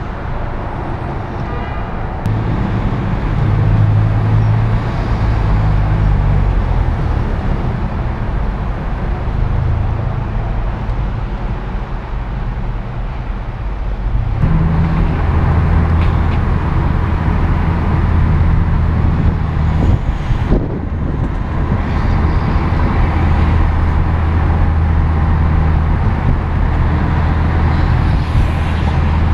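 2008 Acura TSX's 2.4-litre four-cylinder engine and road noise heard from inside the cabin, driving in slow traffic. About halfway through the drone gets louder and stays steady as the car picks up speed.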